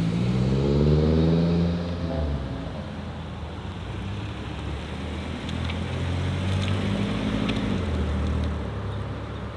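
Modified car engine revving as the car pulls away, its pitch rising and at its loudest about a second in, then dropping off. About six seconds in, a second car's engine comes up, holds for a couple of seconds and fades.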